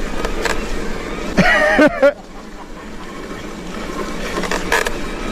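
Steady rumbling noise of a mountain bike being ridden along a trail, with a short pitched cry, like a voice, about a second and a half in, after which the noise drops for a moment.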